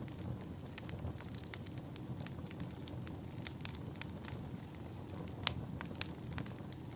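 Wood fire crackling in a fireplace: irregular sharp pops over a low steady rumble, with one louder pop about five and a half seconds in.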